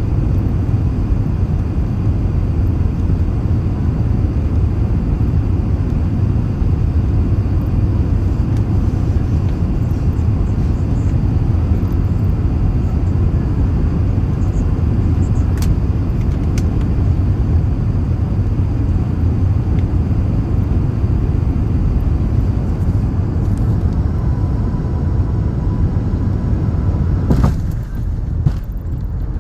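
Steady low rumble of an Airbus A380's engine and airflow noise heard inside the passenger cabin. Near the end a sharp click comes, and the higher part of the noise falls away.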